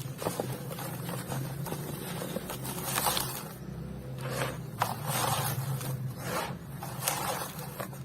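Dry, dusty crumbly material being crushed and broken up, in a series of short scraping, crunching bursts over a steady low hum.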